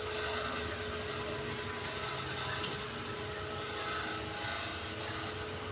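Steady running hum and rumble of a diesel passenger train, heard from inside a carriage at the platform, with one held drone throughout. A faint click about two and a half seconds in.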